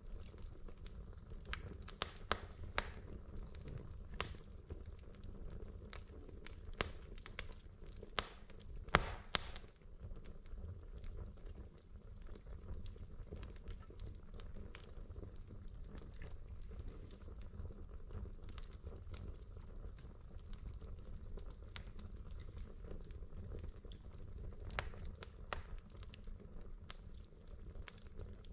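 Wood fire burning in a fireplace: logs crackling with scattered sharp pops and snaps over a low steady rumble of the flames, with a few louder snaps about two seconds in and again around eight to nine seconds in.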